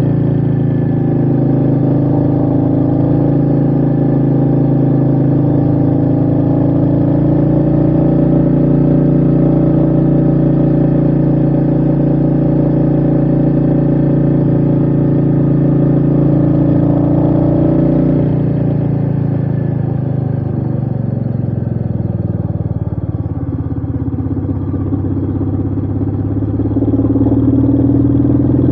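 Royal Enfield Meteor 350's single-cylinder engine running steadily under way, heard from the rider's seat. About two-thirds through its pitch falls as the throttle closes, and it picks up again near the end.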